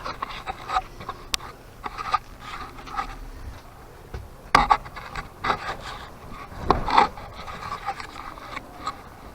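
Staple gun firing twice, about two seconds apart, fixing vapor barrier sheeting to the porch ceiling, with rubbing and rustling of the sheeting and small clicks between shots.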